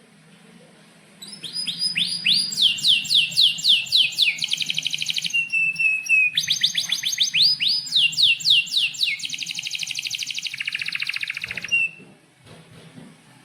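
Domestic canary singing a long song: series of quick falling whistled notes, stretches of very fast trills and a short held note, starting about a second in and stopping shortly before the end. A faint low hum runs underneath.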